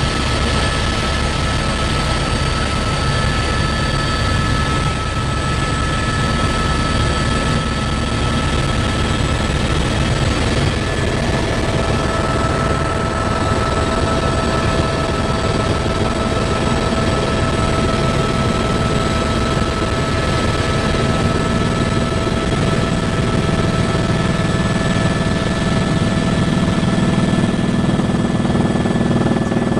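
Helicopter in flight: steady, loud rotor and turbine noise with a low drone and a few thin, constant whining tones on top.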